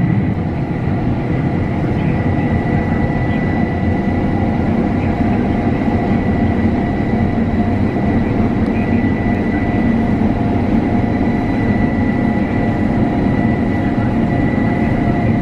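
Combine harvester running steadily while cutting wheat: a constant mechanical drone with a thin, steady high whine.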